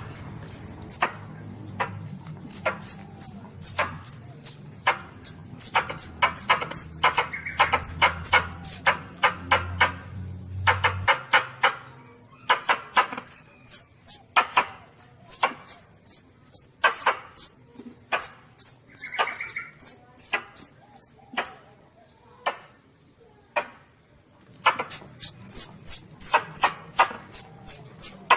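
Baby Asian palm civet (luwak) calling: rapid runs of short, high-pitched squeaks and chirps, several a second, in bouts with a brief lull about three-quarters of the way through.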